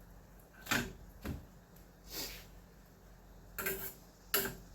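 Five short knocks and clatters, as of a cooking pan and utensils being handled, over a faint steady low hum.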